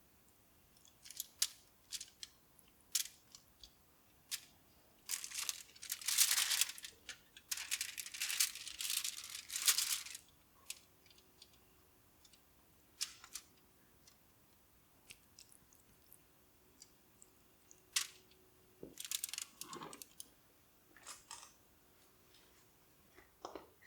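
Kitchen handling sounds while a whole raw chicken is oiled and readied for roasting: scattered light clicks and knocks, with a cluster of rustling, crinkling bursts about five to ten seconds in.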